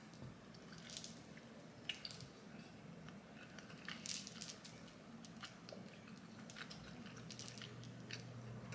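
A person chewing a mouthful of food with the lips closed: soft wet mouth clicks and smacks, scattered and irregular, over a faint low hum.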